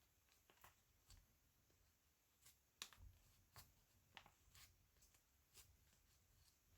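Near silence: room tone with a few faint, short clicks and taps of light handling.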